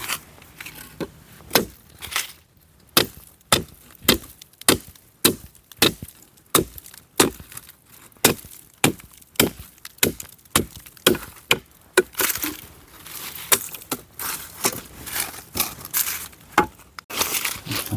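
Dry hardwood being chopped into firewood lengths with a hand-held blade: a steady run of sharp chopping strikes, roughly one to two a second.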